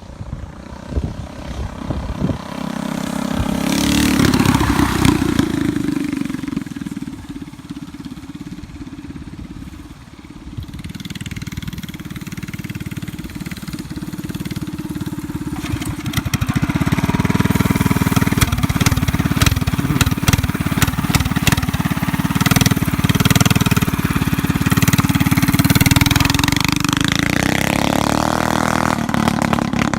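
Small mini bike engine running as the bike is ridden. It swells loud about four seconds in, drops back, then runs loud and steady for most of the second half before easing off near the end.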